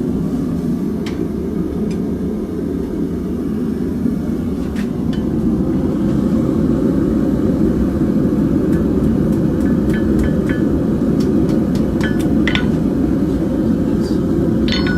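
A forge running with a steady low roar, with scattered light clicks and metallic taps of tools and steel, most of them in the second half.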